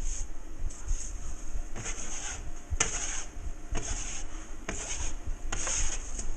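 A hand tool rubbing across a ceiling drywall patch in repeated strokes, roughly one a second.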